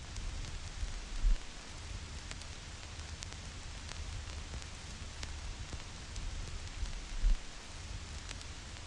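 Vinyl record surface noise: a steady hiss with scattered crackles and pops under a low rumble. Two louder low thumps come, one about a second in and one near the end.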